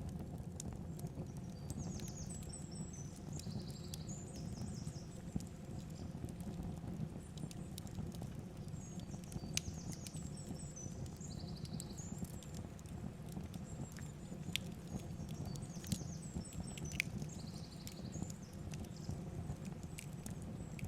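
Steady rush of a flowing river. A bird sings the same short, high phrase three times, about every seven seconds, over scattered small clicks.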